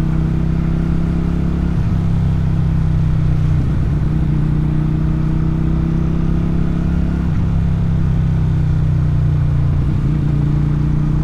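Motorcycle engine and exhaust running steadily while riding, its note briefly broken or shifting about four times.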